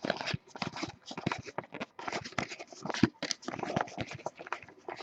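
Trading cards handled by hand: a quick, irregular run of paper scrapes and light slaps as the cards are slid and flipped through.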